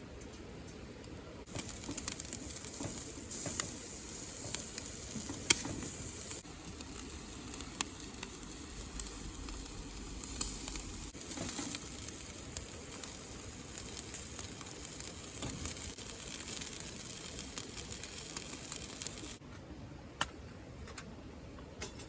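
Food sizzling as it fries, a steady hiss with scattered sharp pops. It starts abruptly about a second and a half in and cuts off abruptly near the end.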